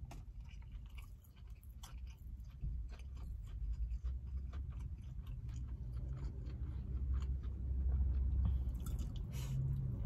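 Close-up chewing of a mouthful of cold, firmly packed rice, with many small clicks and taps, and a low rumble underneath that grows louder after a few seconds. A denser flurry of clicks comes near the end.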